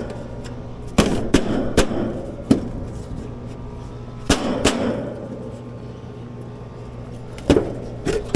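A series of sharp knocks and clanks, about eight in all, in small clusters, from an outdoor AC condensing unit's service panel being handled and opened to check its contactor, over a steady low hum.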